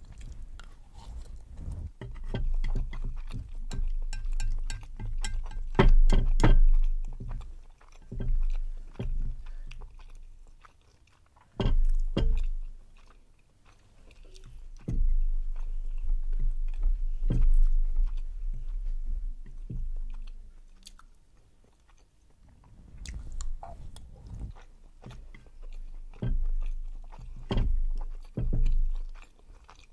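Close-miked chewing of chewy tteokbokki rice cakes in sauce, wet mouth sounds with sharp clicks, coming in bouts of a few seconds with short pauses between mouthfuls.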